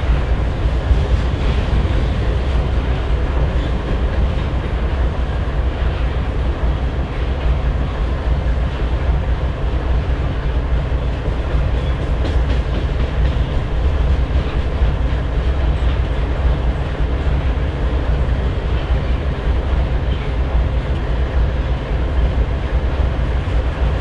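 Canadian Pacific GE diesel locomotives idling with a steady low hum, while a long train of coal hopper cars rolls past with a continuous rumble of wheels on rail and light clickety-clack over the joints.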